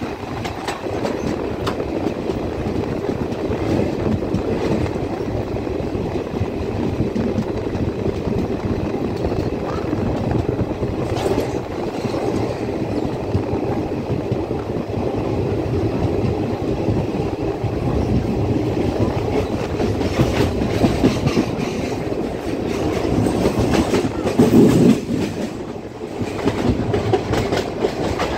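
Indian Railways passenger coach running along the track: steady rumble of wheels on rail with rhythmic clickety-clack from the rail joints. There is a brief louder rumble a few seconds before the end.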